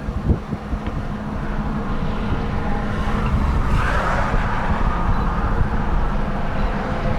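An engine running steadily with a low hum, and wind buffeting the microphone; a rushing noise swells in the middle and eases off again.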